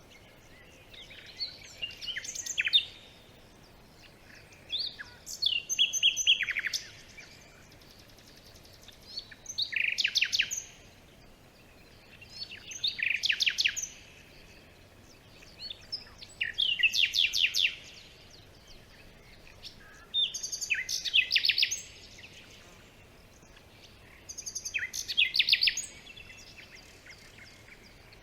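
A songbird singing a short, rapid phrase of repeated notes, repeated about every four seconds, with a faint steady hiss between phrases.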